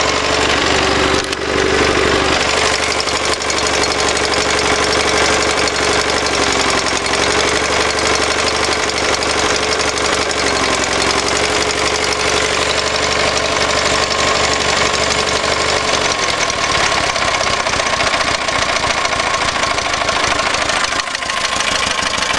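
Gravely 7173H garden tractor engine running steadily at idle. A wavering mid-pitched tone over the engine noise stops about 16 seconds in, while the engine keeps running.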